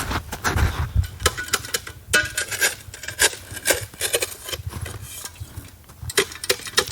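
A string of irregular light clicks and knocks with a few short metallic clinks, the sound of hard camping gear being handled and knocked together.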